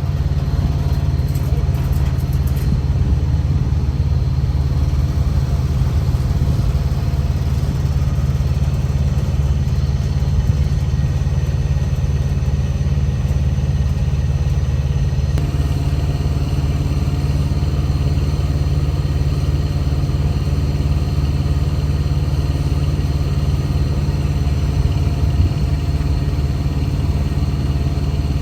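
A vehicle engine idling steadily close by, with a slight change in its tone about fifteen seconds in.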